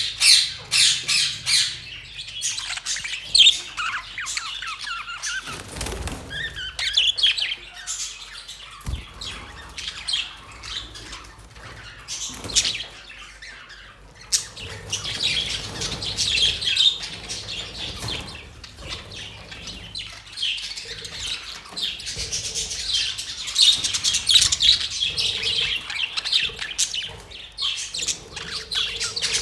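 A flock of budgerigars chattering with rapid chirps and squawks, thinning out for a while in the middle and then building up again. There are two dull knocks in the middle stretch.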